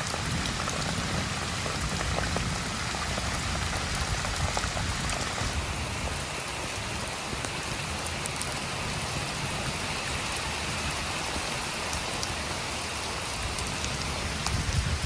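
Steady rain falling, with scattered sharp drop impacts through it.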